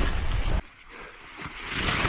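Skiing down snow with wind buffeting the microphone and skis scraping and hissing over the snow; the noise cuts off suddenly about half a second in, and the hiss of the skis builds again near the end.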